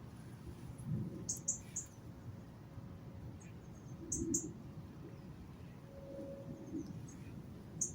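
Small wild birds chirping: short high chirps in quick clusters about a second in, around four seconds and near the end, over faint low rustling.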